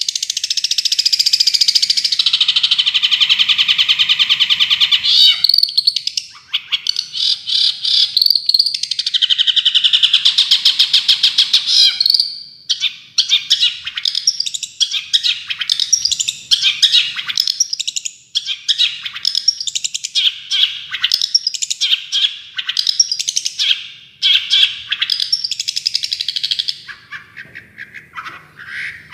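Songbird singing 'tembakan' song for tutoring long-tailed shrikes: a long, very fast trill lasting about five seconds, a second long trill a few seconds later, then a run of short, varied chattering phrases that quieten near the end.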